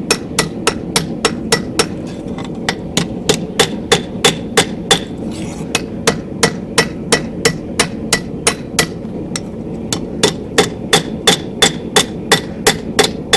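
Blacksmith's hammer striking a steel angle-iron workpiece on the anvil, a steady run of ringing blows at about three a second with a brief pause about nine seconds in, flattening the corners and knocking off grinder burrs. A steady rushing noise runs underneath.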